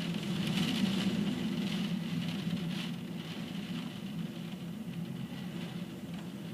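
Rainstorm noise: strong wind and pouring rain, a steady rush that is loudest in the first second or two and then eases slightly.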